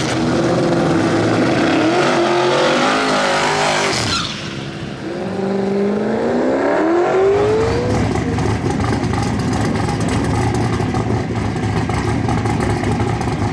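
Drag racing car accelerating hard: the engine's pitch climbs, drops sharply at a gear change about four seconds in, then climbs again until about eight seconds. A steady, loud engine sound follows.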